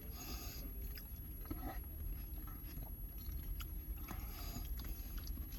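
A person chewing a mouthful of oxtail poutine, with faint scattered mouth clicks and smacks.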